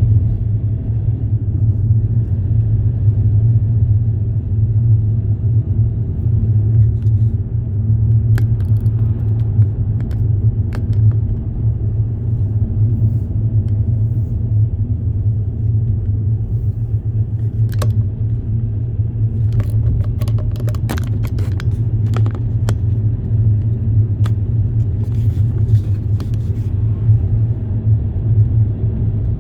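Steady low rumble of a moving vehicle, with a run of sharp clicks and rattles in the middle and again in the second half.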